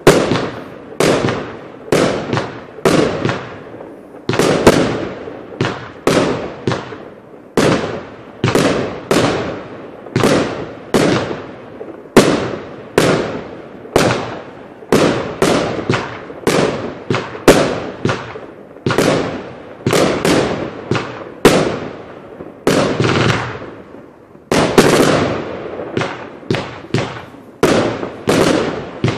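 Gringo compound firework cake firing a continuous run of shots, about one and a half a second, each a sharp bang that trails off.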